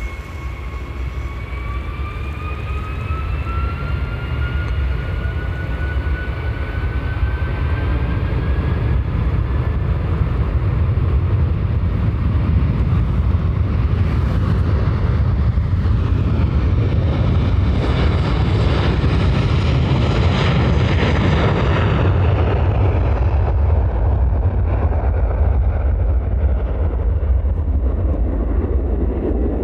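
Boeing 757's twin jet engines at takeoff power, growing steadily louder, with a rising whine over the first ten seconds. A heavy rumble peaks as the jet passes, about two-thirds of the way in, and the high end fades away afterwards.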